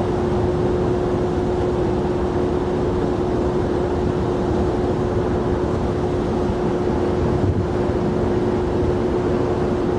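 Jet airliner engines running, a steady drone with a constant hum-like tone and no rise or fall in pitch or level.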